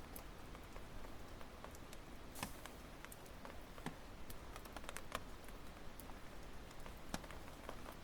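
Burning firewood crackling, with irregular small snaps and a sharper pop with a brief hiss about two seconds in.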